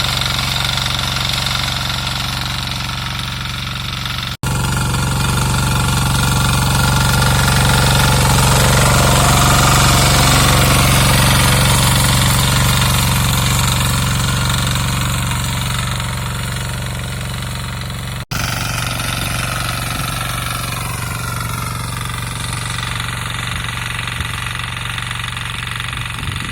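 Small diesel engine of a 6 hp Greaves power weeder running steadily, its note growing louder and then fading between about six and sixteen seconds in.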